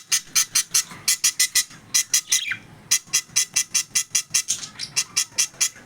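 Small pet parrots calling: a rapid run of shrill, sharp chirps, about five a second, broken by a couple of short pauses, with one call sliding down in pitch about two and a half seconds in.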